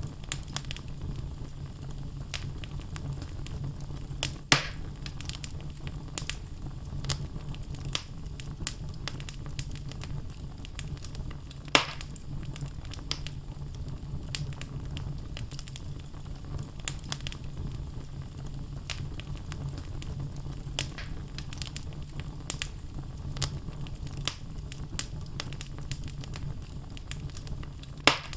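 Wood fire burning in a fireplace: the logs crackle with many small snaps over a steady low rumble of the flames. Three sharp, louder pops stand out, about four seconds in, near the middle, and near the end.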